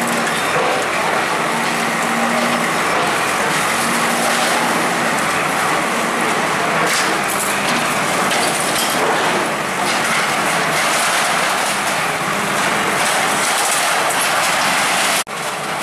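Loud, steady noise of motor vehicles and heavy machinery running, with a sudden brief dropout near the end.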